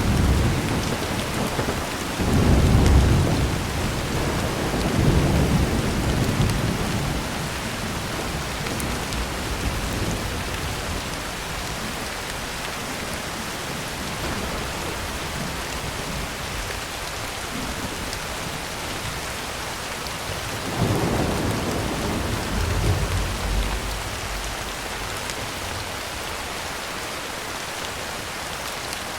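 Heavy rain falling steadily on a tin roof, with thunder rumbling twice: a long rolling rumble over the first several seconds, and another about twenty seconds in.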